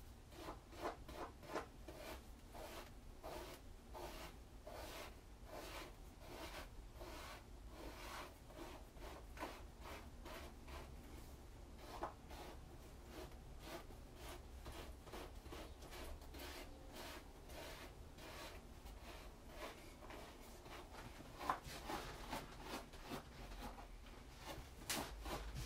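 Comb drawn through hair over and over: soft scratchy strokes, about three a second.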